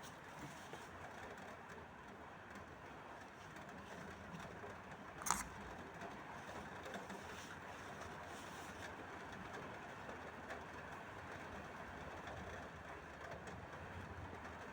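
Faint, steady rain hiss, with one sharp knock about five seconds in.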